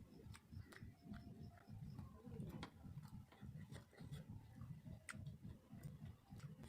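Faint close-up eating sounds: chewing with many small wet mouth clicks and lip smacks, at an irregular quick rhythm.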